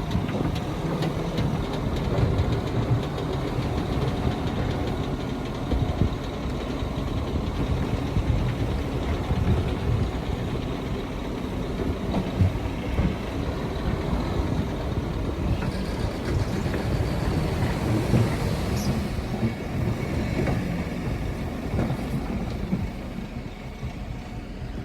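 Heavy diesel earthmoving machinery running with a steady low rumble and some clanking.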